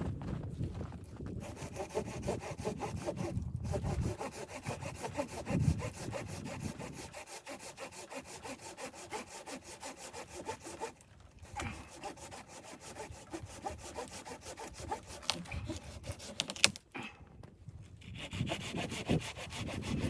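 Hand saw cutting through wood in steady back-and-forth strokes, pausing briefly twice.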